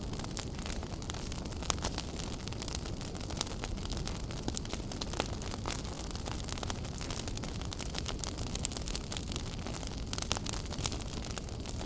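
Wood fire burning in a fireplace, crackling with frequent small snaps and a few louder pops over a steady low rushing hiss.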